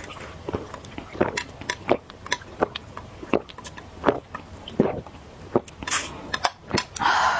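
Close-miked chewing and eating: wet mouth clicks and smacks, roughly two a second, with a louder rush of noise near the end.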